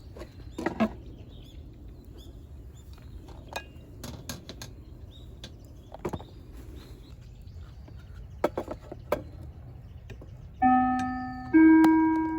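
Scattered light knocks and clicks, like camp gear being handled, with faint bird chirps. About two seconds before the end, slow bell-like notes of background music begin and are the loudest sound.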